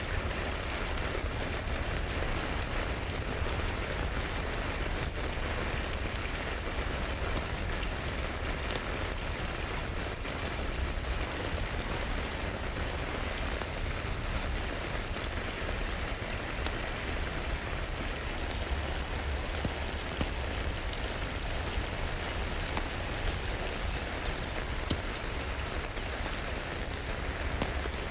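Steady rain falling, with scattered small crackles from a wood fire in a fireplace.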